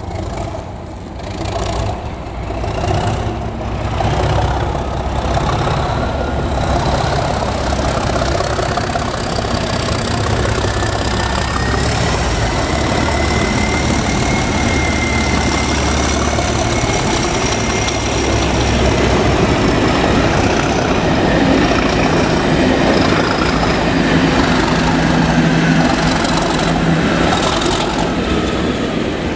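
A train running through the station: a loud steady rumble of engine and wheels, with a high whine that rises and then falls through the middle.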